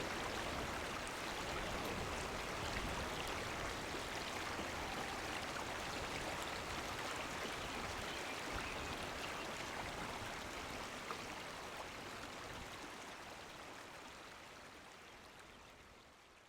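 Creek water flowing, a steady rush that fades out near the end.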